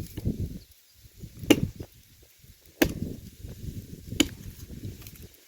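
Wood being chopped by hand with a blade: three sharp strikes about a second and a half apart, with rustling of branches between them.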